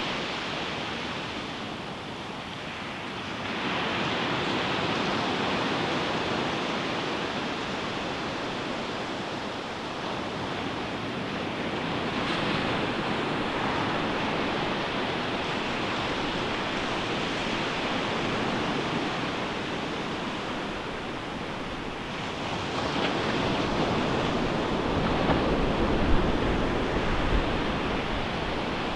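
Ocean waves breaking on a sandy beach, a continuous wash of surf that swells as each wave crashes, most strongly about three-quarters of the way through. Some wind noise on the microphone.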